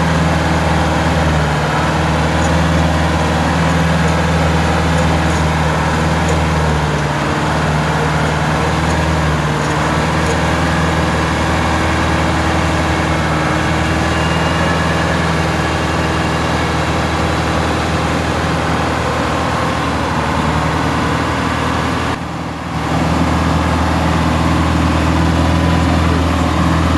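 GAZ-66 truck engine running steadily, with a deep, even engine note. There is a brief dip about three-quarters of the way through, then the same steady running.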